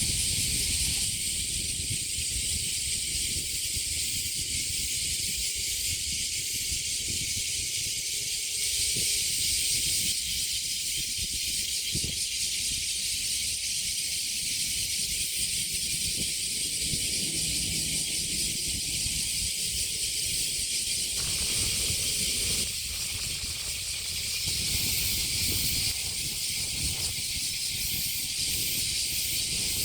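Chorus of cicadas singing together: a dense, steady, high-pitched shrill buzz that swells and eases a little now and then, with a low rumble beneath it.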